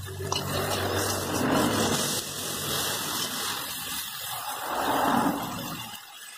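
Chopped tomatoes, onions, garlic and chilies sizzling in a metal wok while a spatula stirs and scrapes through them. The sound swells twice with the stirring and dies down near the end.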